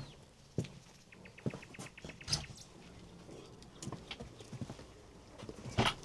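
Irregular knocks and clicks, with a quick rattle of small ticks about a second in and a louder knock near the end.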